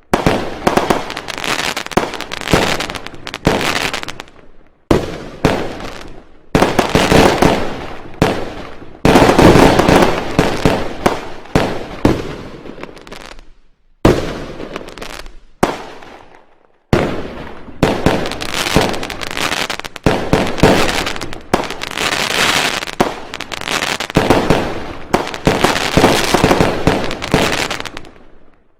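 Fireworks and firecrackers going off in rapid volleys of sharp bangs and crackling. The sound comes as a string of short recordings that cut off abruptly into silence between them.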